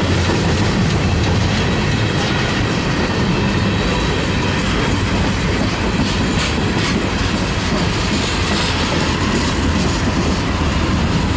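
Freight train's gondola cars rolling past close by: a steady, loud rumble of steel wheels on the rails, with some clicks and clacks.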